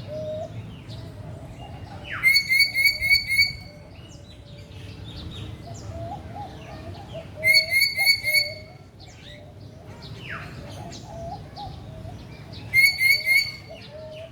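Captive birds calling in a bird park. One bird gives a loud run of four or five sharp, evenly spaced notes three times, about five seconds apart, over steady softer chirping from other birds.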